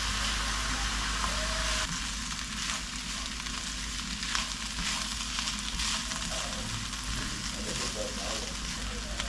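Food frying in a pan: a steady sizzle with scattered crackles and pops, dropping a little in level about two seconds in.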